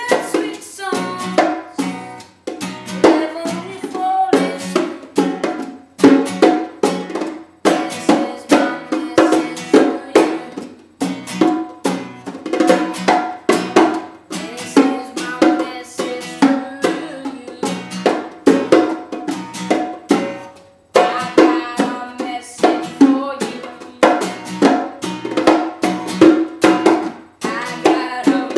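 An acoustic stringed instrument strummed in a steady, bouncy rhythm with sharp percussive chops, playing an instrumental stretch of the song.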